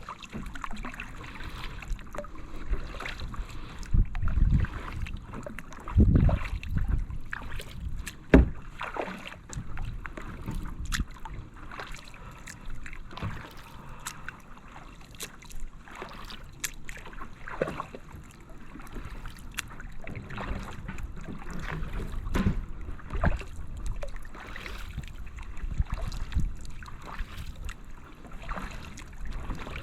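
Kayak paddle strokes in calm water: repeated splashes and drips as the blades dip and lift. A few heavier low thumps come in the first third.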